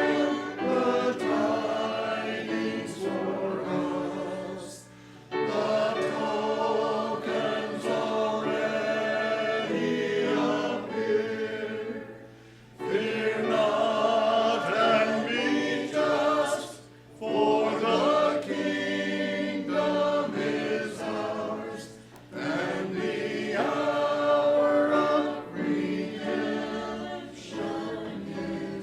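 Congregation singing a hymn together, in sung phrases broken by short pauses every few seconds.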